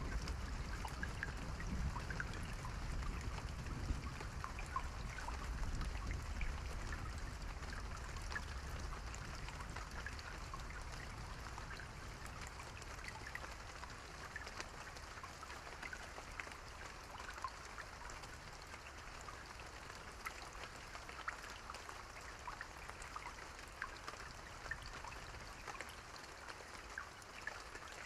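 Steady rain with many distinct drips and patters. A low rumble of distant thunder fades away over the first several seconds.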